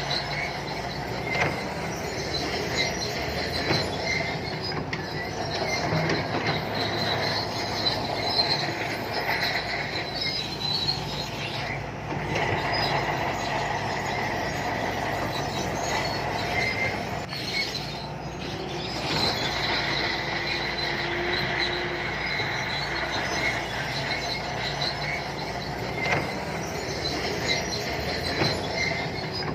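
Shantui crawler bulldozer working: its diesel engine runs steadily while its steel tracks squeal and clank.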